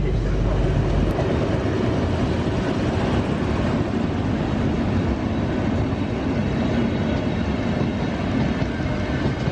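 Train headed by three locomotives passing close by, a steady loud noise throughout.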